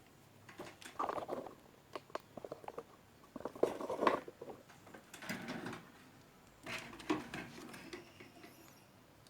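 Small parts being handled inside a microwave oven under repair: clusters of light clicks and scratchy rustling in five or so short bursts.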